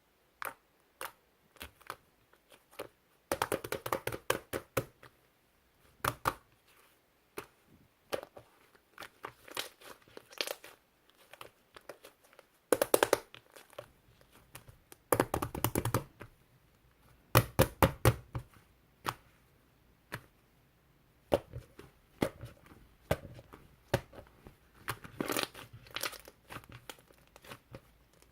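Slime being squeezed and pressed by hand, giving crackling, popping clicks in dense bursts of about a second, with scattered single pops between them.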